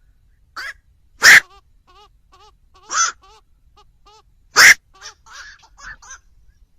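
Black-crowned night herons calling: loud, harsh single 'quok' calls, three strong ones about a second and a half apart, with softer, shorter calls in between.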